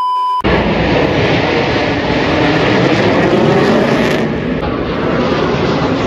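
A brief steady beep-like tone cuts off about half a second in, giving way to the loud, even engine noise of an airplane flying over the show.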